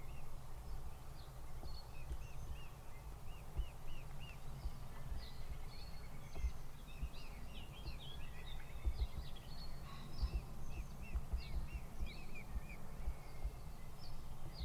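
Several wild birds singing and chirping, with runs of short repeated rising-and-falling notes and scattered higher chirps, over a steady low rumble.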